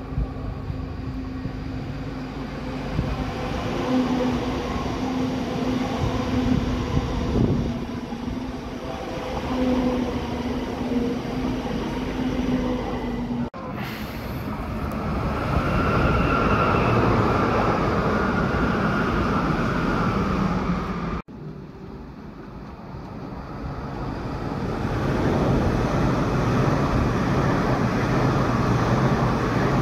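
Electric passenger trains passing on a main line: a steady motor hum and whine over the rumble of wheels on rail. The sound changes abruptly twice as one train gives way to the next.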